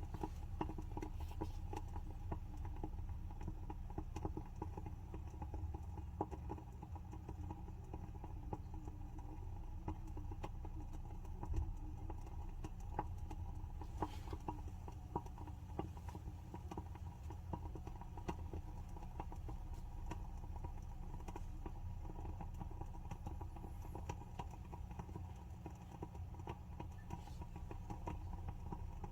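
WoodWick candle's wooden wick crackling as it burns: a dense, irregular run of small sharp pops and ticks, with a steady low hum underneath.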